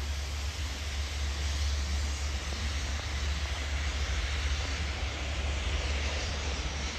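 A train running through or approaching the station: a steady low rumble with a broad hiss of running noise that swells a little in the middle.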